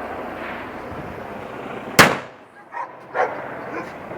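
Bonfire Night fireworks going off: one sharp, loud bang about two seconds in that trails away, followed by two fainter pops.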